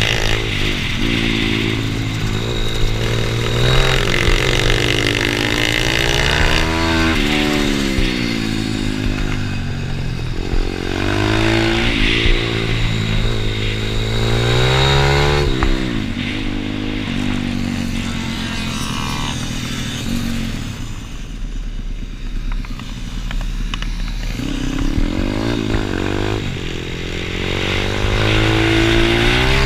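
Pit bike engine at full racing pace, revving up through the gears again and again and dropping back on each shift and braking zone, with a brief easing off a little past two-thirds of the way through.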